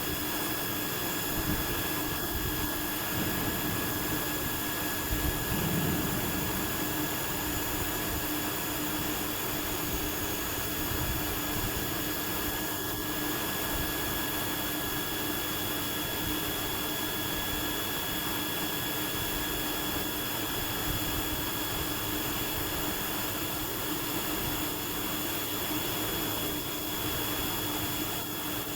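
CNC machining center running, a steady mechanical drone with several constant whining tones through it.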